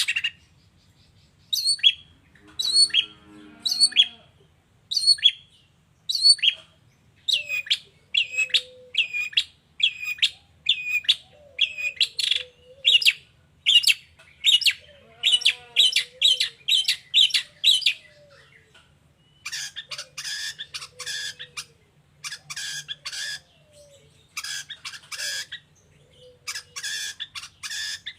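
Long-tailed shrike (pentet) singing its mimicking song: short, sharp chirping notes about one or two a second, quickening into fast runs, then turning scratchy and bunched into bursts about a second long in the second half.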